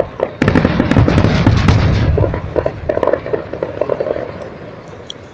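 Aerial firework shells bursting in a rapid volley of bangs and crackles. The volley is loudest for the first two seconds, then thins out and dies away.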